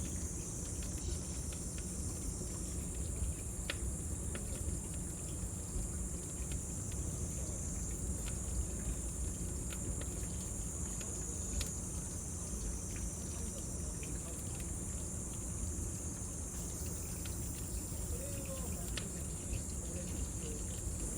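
Cicadas droning in a steady high buzz over a crackling bonfire, with a few sharp pops from the burning wood.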